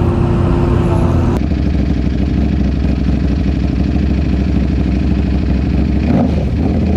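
A vehicle engine idling steadily, with an abrupt change in its sound about a second and a half in.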